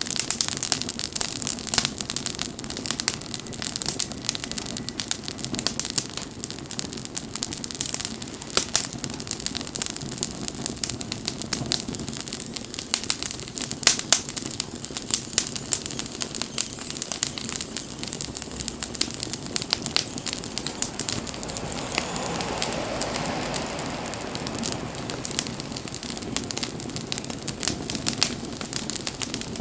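Wood campfire burning, crackling and popping steadily over a low rushing of flames. A broader rushing noise swells briefly about two-thirds of the way through.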